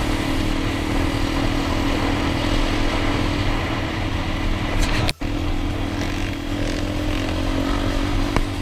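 Dirt bike engine running steadily under way, mixed with dense road and wind noise. The sound cuts out for a split second about five seconds in.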